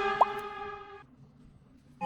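A short rising 'bloop' pop sound effect over a held musical tone, which fades out about a second in.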